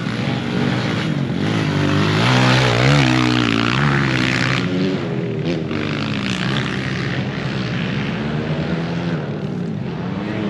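Several pit bike engines racing, revving up and down at different pitches over one another, loudest a couple of seconds in.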